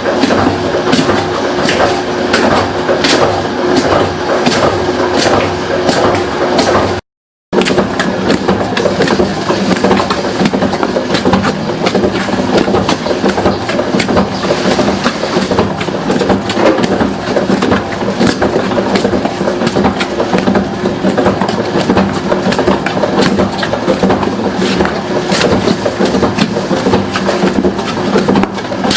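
A machine running with a steady hum and rapid, uneven clattering knocks. It drops out briefly about seven seconds in.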